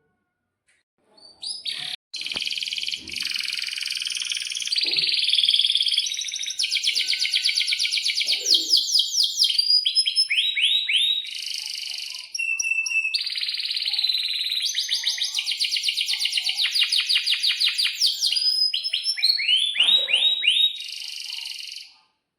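Domestic canary singing a long, continuous song of fast trills and rapid repeated chirps, starting about a second and a half in, with a brief break around the middle, and stopping just before the end.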